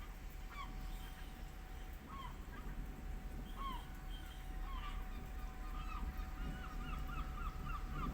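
Birds calling in short rising and falling notes. From about halfway in, one call is repeated quickly, about three times a second. Under it runs a faint steady hum and a low rumbling background.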